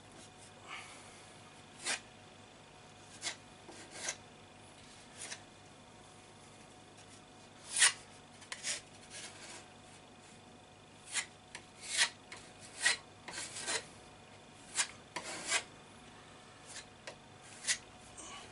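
Filler knife scraping filler into and across holes in a plaster wall: short, irregular scraping strokes, sparse at first and more closely bunched in the second half.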